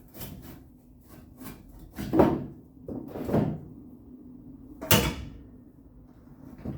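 A handful of knocks and scrapes as a piece of wood is levered against the inside of a pickup truck's sheet-metal quarter panel. The loudest, sharpest knock comes about five seconds in.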